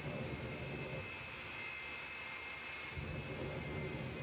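Jet truck's turbine engine running, a steady high whine over a low rumble that grows stronger about three seconds in.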